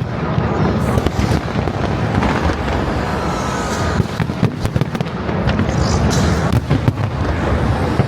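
Aerial fireworks going off continuously: a steady rolling rumble of bursts, with many sharp crackling pops on top.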